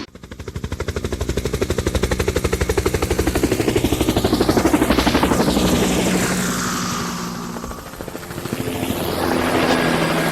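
Helicopter flying past with rapid, even rotor-blade chop. It grows louder to a peak about halfway through, eases off, then swells again near the end.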